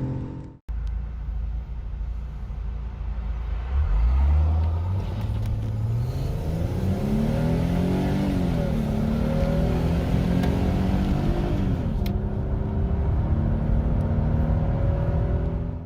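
Car engine idling, then accelerating hard from a standstill about four seconds in, its note climbing through the revs with two upshifts, each a sudden drop in pitch followed by a new climb.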